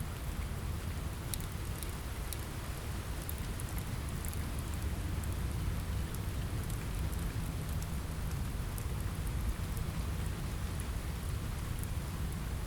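Steady rain falling on a window, with a deep low rumble underneath and scattered faint crackles from a wood fire.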